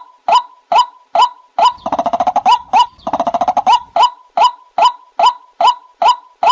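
White-breasted waterhen calling: a steady series of short, sharp notes about two and a half a second, broken about two seconds in by two rapid chattering rattles of about a second each, then the note series again.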